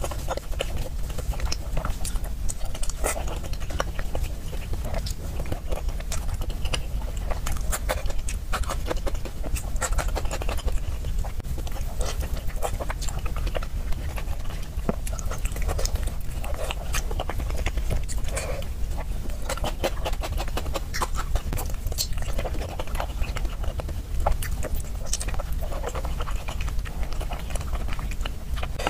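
Close-miked chewing and wet mouth sounds of someone eating chewy food in a thick sauce, with frequent sticky smacks and clicks, over a steady low hum.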